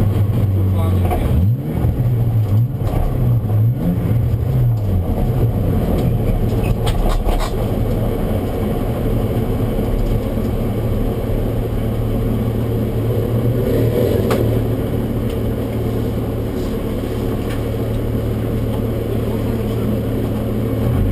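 BMW E36 323ti's 2.5-litre straight-six engine, heard from inside the cabin. Over the first few seconds the revs rise and fall as the car comes off the runway, then the engine settles into a steady low idle while the car rolls to a stop.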